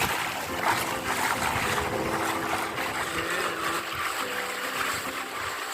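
Water splashing and rushing along the hull of a sailboat under way: a steady wash of noise with a few brief louder splashes.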